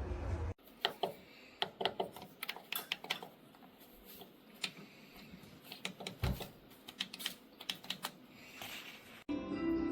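A run of irregular, light clicks and taps, a dozen or more spaced unevenly over several seconds. Music starts near the end.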